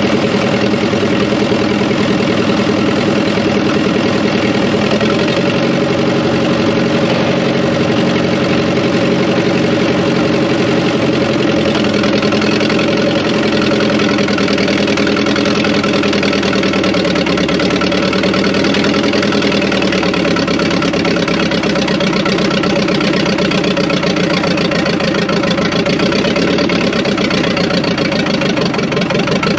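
Fordson Power Major tractor's four-cylinder engine running steadily, its speed shifting slightly about halfway through.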